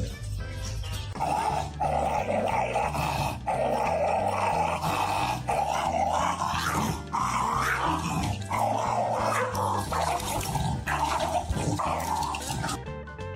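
A dog making long, rough vocal sounds, broken by short pauses, starting about a second in and stopping near the end, over background music.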